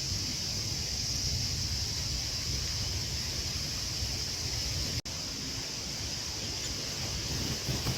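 Steady outdoor ambience with a constant high-pitched insect drone and a low rumble of wind on the microphone; the sound cuts out for an instant about five seconds in.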